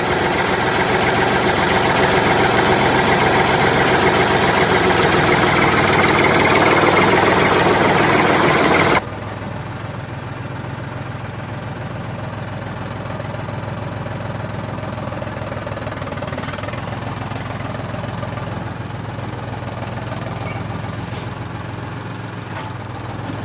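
Tractor engine running hard for about nine seconds, then dropping abruptly to a quieter steady idle with a low hum.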